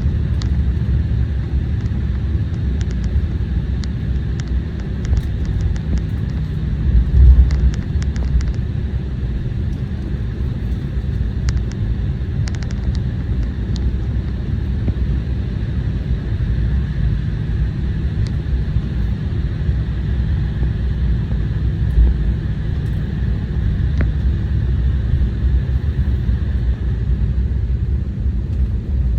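Cabin noise inside an Embraer 175 taxiing after landing: a steady low rumble from the idling jet engines and the wheels rolling over the taxiway. There is a louder bump about seven seconds in and another near the middle.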